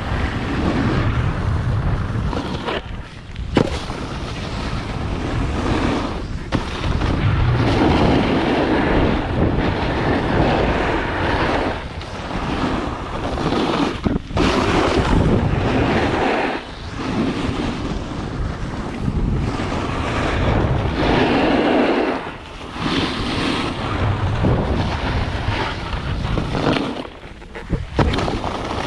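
Wind rushing over the microphone of a snowboarder's camera during a run, swelling and easing and dropping away briefly several times.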